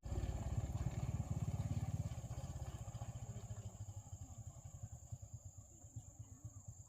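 Motorcycle engine running with a fast, even low pulse, fading steadily as it moves away.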